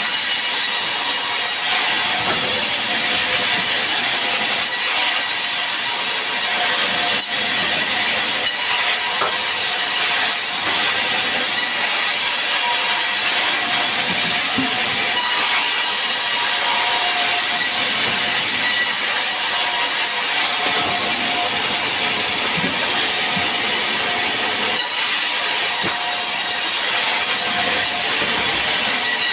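Sawmill saw running and cutting sengon wood: a loud, steady, hissing noise with a faint whine, unbroken throughout.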